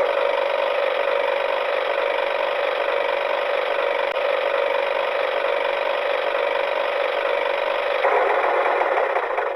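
A toy vehicle's small electric motor and plastic gears running, a steady whirring rattle that shifts slightly in tone about eight seconds in.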